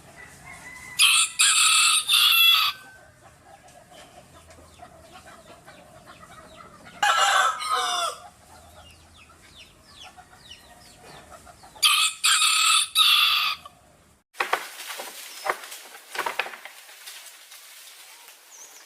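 A rooster crowing three times, about five seconds apart, with softer clucking between the crows. About three-quarters of the way through it gives way to a scatter of light knocks and rustling.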